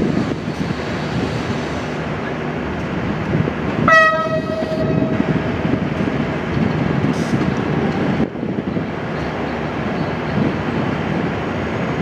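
Diesel locomotive hauling a passenger train as it approaches, with a steady low engine and rail rumble. About four seconds in it gives one short horn blast that fades after about a second.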